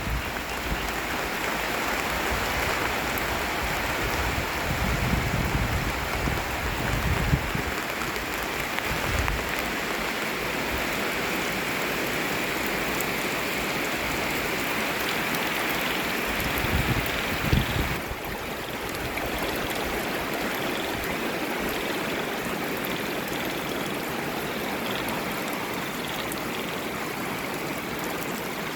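Steady heavy rain falling, with a chorus of small frogs calling through it. There are a few low rumbles on the microphone in the first two-thirds.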